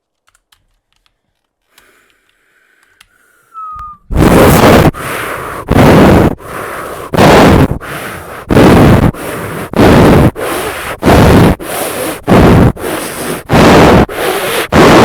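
Rhythmic wind noise from air blasting straight onto the microphone and overloading it: starting about four seconds in, a strong puff comes about every 1.3 seconds with a weaker rush of air between.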